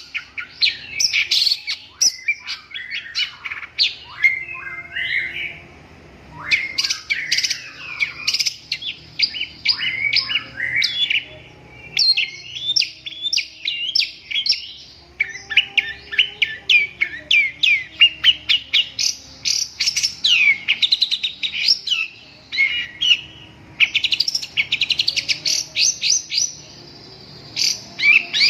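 Long-tailed shrike (cendet) singing: rapid runs of short high notes and quick glides, delivered in bursts with brief pauses between phrases.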